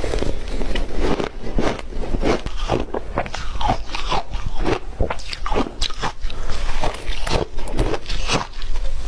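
Ice being bitten and chewed, close to the microphone: an unbroken run of irregular, crisp crunches, several a second.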